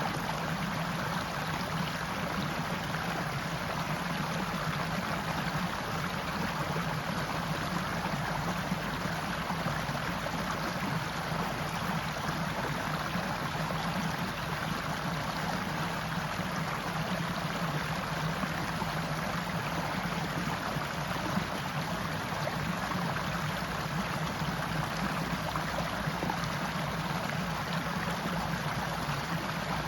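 Forest stream running steadily: a continuous, even murmur of flowing water.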